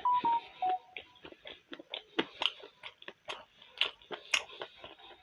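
A person chewing momo dumplings with the mouth close to the microphone: irregular wet smacks and clicks of the lips and tongue. A brief run of short pitched beeps sounds at the very start.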